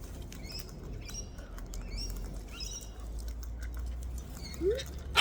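Cockatoos cracking and crunching food with their beaks: many small, sharp clicks, with a few short high chirps and a brief rising call near the end.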